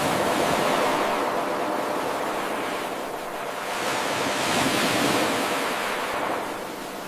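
Ocean surf: a wave washes in as a rushing hiss, eases off about three seconds in, then swells again and fades near the end.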